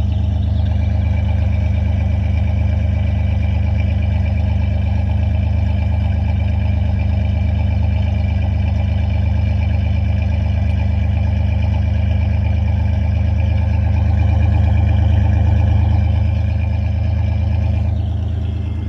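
4.3-litre V6 truck engine idling steadily, still cold just after a cold start in freezing weather; it runs a little louder about fourteen to sixteen seconds in.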